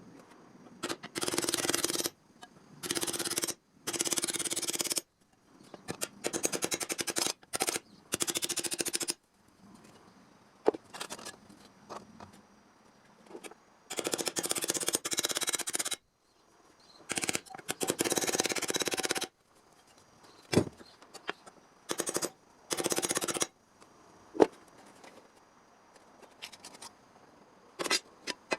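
Sheet-metal work on a steel repair panel: a string of loud scraping bursts, each one to two seconds long, some made of a rapid rattle of ticks, with a few single sharp taps between them.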